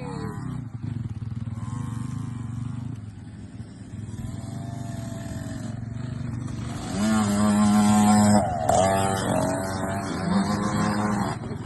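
Kids' KTM motocross bikes running on the track, their engines revving up and down, louder for a couple of seconds about seven seconds in.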